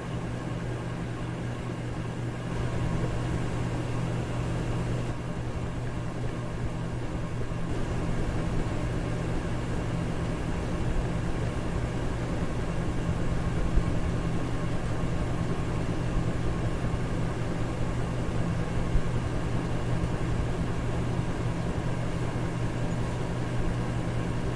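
Electric fan running steadily: a low motor hum under an even rush of air, a little louder from about two and a half seconds in.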